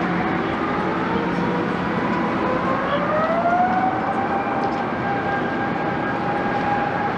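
Airliner's Rolls-Royce Trent XWB jet engines (Airbus A350-900) spooling up: a whine rises in pitch over a steady rush of jet noise, climbing between about two and a half and four seconds in, then holding steady.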